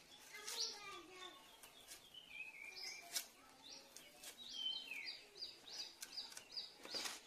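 Birds chirping with short, rising notes, coming about three a second near the end, with a few faint dry clicks from onions being peeled against a curved blade.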